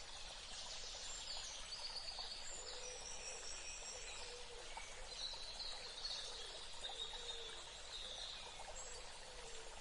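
Birds singing and calling in short, high whistled phrases over a steady background hiss of the outdoor ambience.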